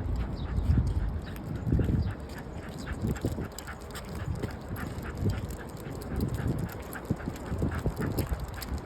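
An old bull terrier breathing noisily as it walks, with a quick, regular ticking of its steps on the ground.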